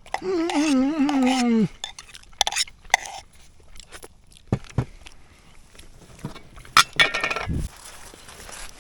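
A person's drawn-out, wavering hum in the first second and a half, then scattered taps and metal clinks of cookware while food heats on the stove, with one ringing clink about seven seconds in.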